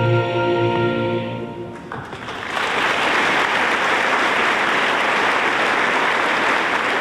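The last held chord of a live musical performance dies away, and about two and a half seconds in an audience breaks into steady applause.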